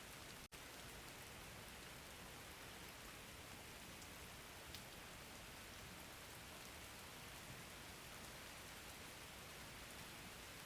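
Steady rain-sound recording: an even, soft hiss of rain with a few faint drop ticks. The sound cuts out for a split second about half a second in, then carries on.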